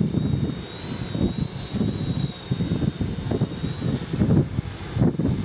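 Strong wind buffeting the microphone in gusts, over the thin high whine of a DJI F450 quadcopter's motors and propellers holding a GPS hover.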